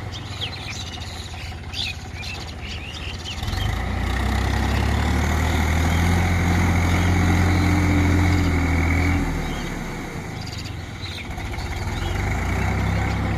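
New Holland tractor's diesel engine running while ploughing. It grows louder about three and a half seconds in, holds a steady heavy note for several seconds, eases off, and picks up again near the end.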